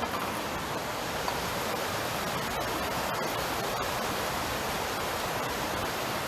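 Steady rushing of flowing water from a mountain stream, an even, unbroken noise.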